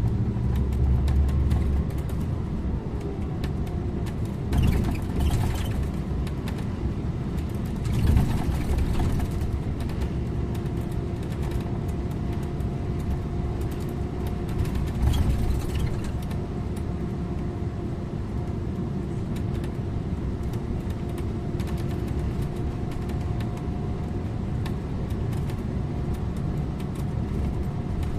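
Scania InterLink bus driving along the road: steady engine and tyre rumble with a constant whine, and short louder rushes of noise about 5, 8 and 15 seconds in.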